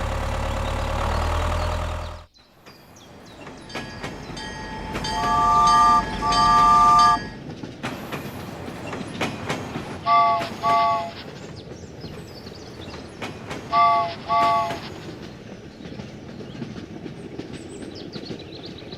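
A steady engine hum that cuts off about two seconds in. Then a three-tone horn sounds two long blasts and two pairs of short blasts, over a rumbling rolling noise.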